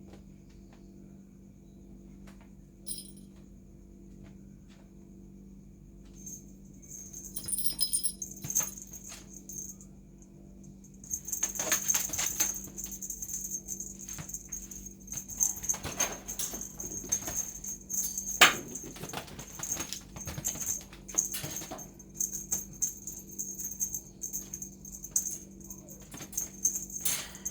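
Small jingle bell rattling in quick irregular shakes as a kitten plays, starting about a third of the way in after a few scattered clicks, over a steady low hum.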